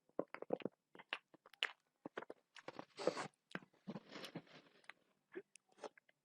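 Close-up eating sounds: a person biting and chewing food, with many short mouth clicks and crunches and a couple of longer chewing stretches about three and four seconds in.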